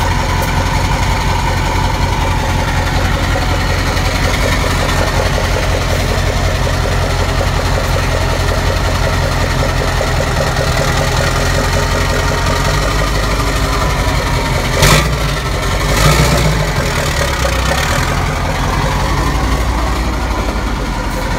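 Mack E9 V8 diesel of a Renault Magnum AE 560 truck idling with straight pipes and no mufflers, a steady low throb. A sharp crack about 15 s in, followed a second later by a short rise in engine sound.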